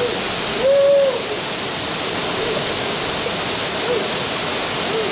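Steady rushing noise, even across high and low pitches, with a few short, faint hooting tones over it; the clearest comes about a second in.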